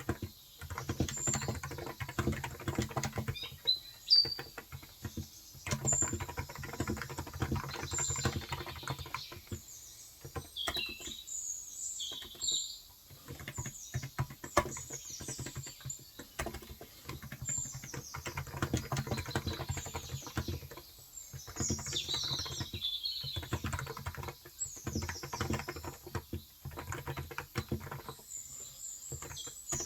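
Typing on a Cox Endeavour tenkeyless keyboard with contactless electro-capacitive 35 g switches: runs of quick keystrokes broken by short pauses. Birds chirp outside throughout.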